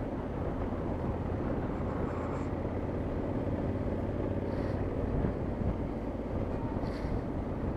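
Motorcycle engine running steadily while riding, with a low, even drone of engine and road noise.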